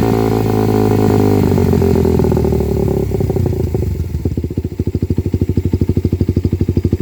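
Suzuki Satria FU carburettor model's single-cylinder four-stroke engine running through a CLD Performance racing exhaust. The revs die back down over the first few seconds, and about four seconds in it settles into a steady, evenly pulsing idle.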